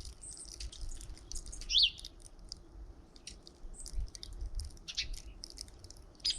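Small songbirds chirping: many short, scattered high chirps, with one louder call near two seconds in.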